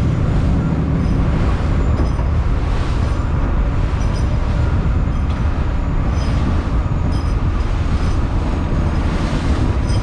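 Fishing boat's engine running steadily, a loud, even low rumble with noise from the water.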